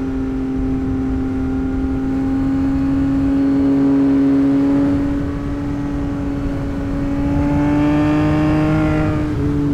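2024 Yamaha MT-09's 890 cc crossplane inline-three engine running at a steady pace, its note creeping slowly higher, then dropping a step near the end.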